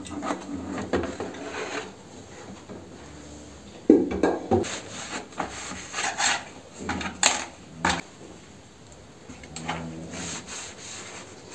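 Objects being handled: irregular rubbing and scraping with several knocks, the loudest a little before halfway.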